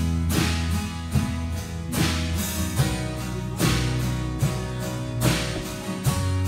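Live rock band playing an instrumental passage: strummed acoustic guitars over electric guitar and a steady bass line, with a drum kit whose cymbals crash at a regular pulse about every second and a half.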